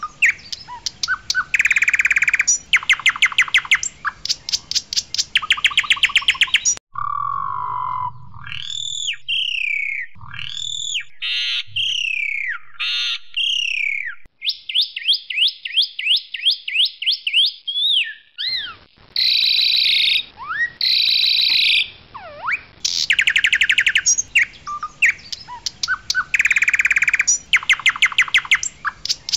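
Asian pied starling (jalak suren), white-headed variety, singing loudly: fast rattling runs of repeated sharp notes, with slurred whistles and a fast buzzy trill in the middle.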